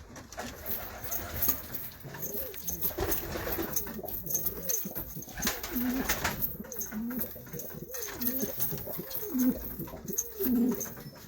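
Domestic pigeons cooing, a string of low, arching coos one after another.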